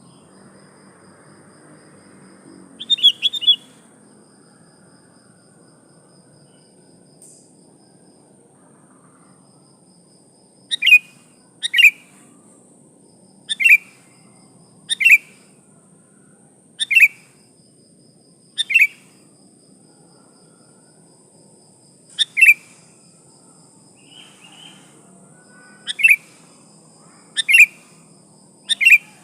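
Female sooty-headed bulbul (kutilang) calling: one brief fluttering burst early, then short, sharp single calls repeated every second or two from about a third of the way in. It is a female's call of the kind used to lure and provoke male bulbuls. A faint steady high hiss runs underneath.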